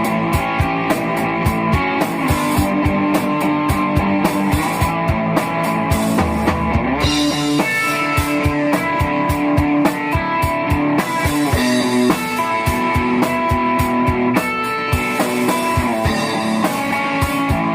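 Rock band playing: electric guitar melody over a steady drum kit beat, without vocals.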